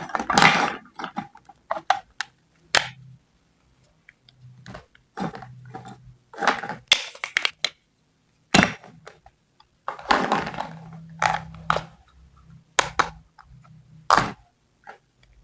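Small kitchen-set pieces and food being handled and cut on a desk: scattered clicks, taps and short scrapes, with a few louder knocks.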